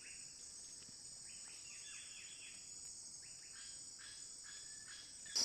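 Faint forest ambience: a steady high-pitched insect buzz, with a bird giving a run of short, falling notes for about three seconds in the middle.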